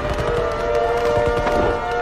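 Civil defense siren wailing, several tones together slowly rising in pitch, over scattered low thuds.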